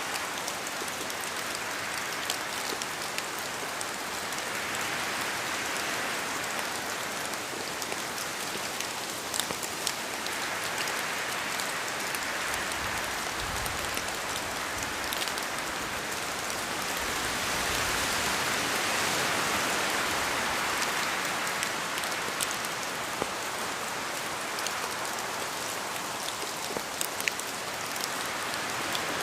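Steady rain falling in a forest, with many individual drops ticking close by. The rush of the rain swells twice, as wind gusts pass through.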